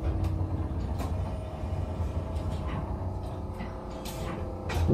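Electric railcar running on the track, heard inside the car: a steady low rumble with scattered sharp clicks, and a short louder burst near the end.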